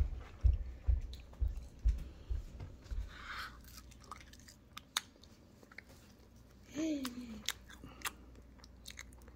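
Close-up chewing and crunching of fried food right at the microphone: dull thumps about twice a second for the first three seconds, then scattered sharp crunchy clicks, with a brief falling hum of a voice just before the end.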